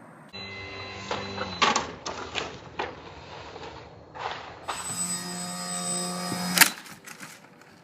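Small electric RC airplane motor and propeller buzzing with a steady pitch, heard in several short clips. A single sharp, loud knock comes about six and a half seconds in.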